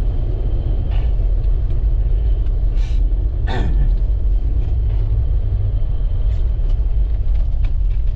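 Steady low rumble of a car driving on a snow-covered road, heard from inside the cabin, with a brief falling squeak about three and a half seconds in.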